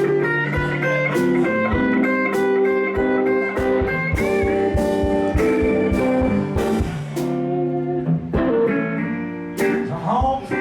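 Blues band playing an instrumental passage, with electric guitar lines over a steady beat of sharp hits.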